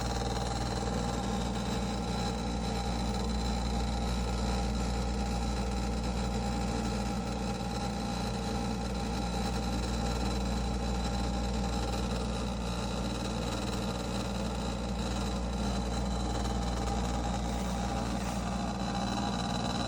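A steady mechanical hum with a deep rumble and a few held tones, unchanging throughout.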